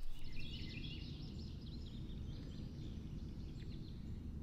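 A songbird singing a quick run of high, stepped notes over the first second and a half, then fainter, over a steady low outdoor rumble.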